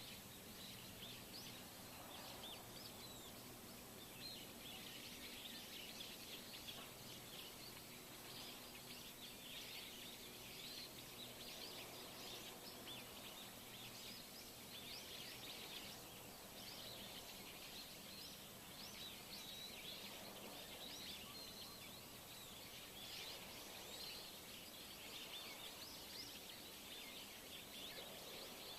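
Many small birds chirping continuously, short high calls overlapping one another over a faint steady outdoor hiss.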